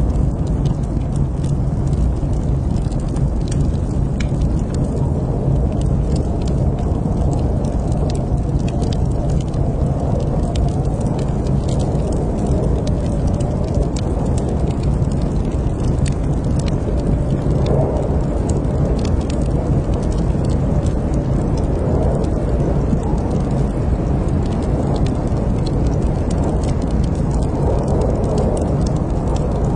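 Wood fire crackling in a fireplace: frequent small, sharp pops over a steady low rush.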